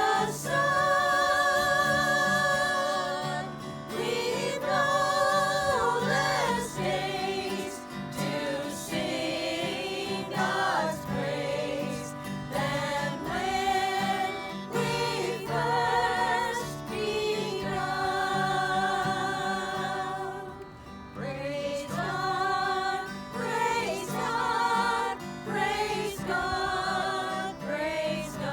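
Several voices singing a gospel hymn together over a steady low accompaniment. The long held notes carry vibrato.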